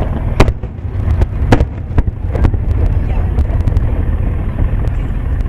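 Fireworks shells bursting: several sharp bangs and cracks in the first two and a half seconds, the loudest about half a second in, over a steady low rumble.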